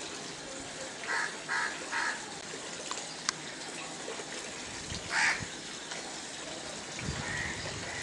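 Bird calls: three short, rough calls about a second in, a louder one about five seconds in and a fainter one near the end, over a steady background hiss.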